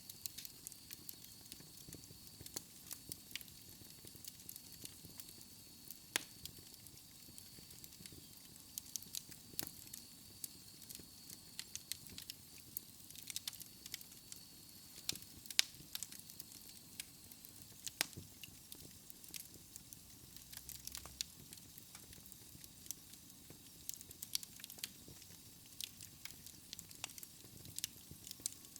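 Wood fire in a fireplace crackling softly, with irregular sharp pops and snaps over a low hiss. A faint, high steady tone runs under it for about the first half.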